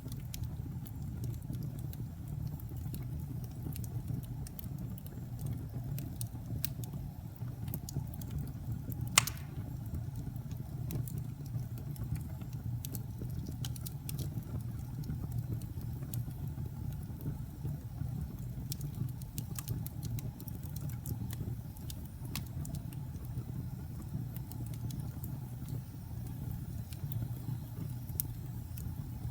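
Wood fire burning in a fireplace: a steady low rumble with scattered sharp crackles and pops, one louder pop about nine seconds in.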